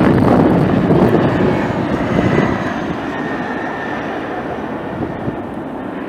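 Jet airliner passing and fading away: a loud rumble that slowly dies down, with a thin engine whine from about two seconds in. Wind buffets the microphone.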